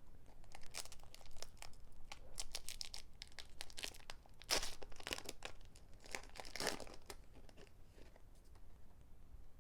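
A foil Pokémon booster pack being torn open and its wrapper crinkled by hand: a run of crackles and rips, loudest about halfway through and again near the two-thirds mark.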